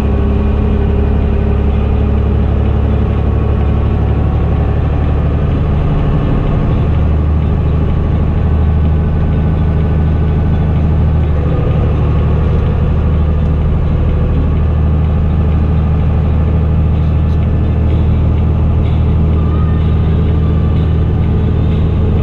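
Fendt Favorit 926 Vario tractor's diesel engine running steadily through an open exhaust pipe while working a haylage pit, its note shifting slightly about six seconds in.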